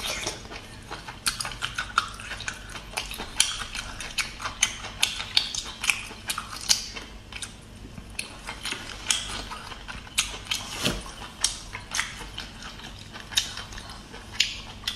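Close-miked chewing of braised abalone: a steady run of wet mouth clicks and smacks, several a second.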